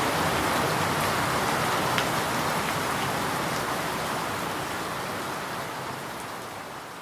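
Steady rain falling, with an occasional distinct drop ticking out of the hiss; it fades steadily down over the last few seconds.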